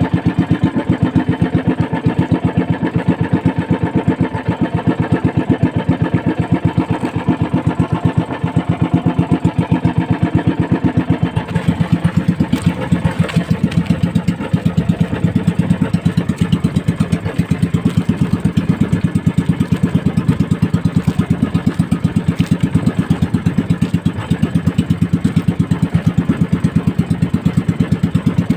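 Small fishing boat's engine running steadily at constant speed, with a fast, even firing beat.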